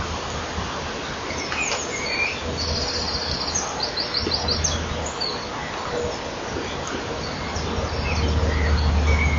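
High, thin bird calls between about 1.5 and 5 seconds in: a fast trill followed by a few separate high notes and short chirps. They sit over the steady hiss and low hum of the nest-camera microphone.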